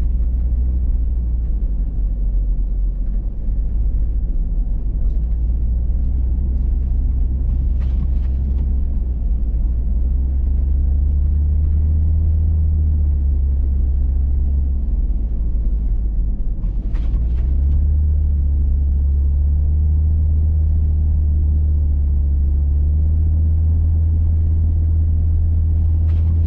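Hummer H3 driving on a snowy road: a steady low engine and road rumble, whose engine note steps up a little about two-thirds of the way through. Two brief clicks, about nine seconds apart.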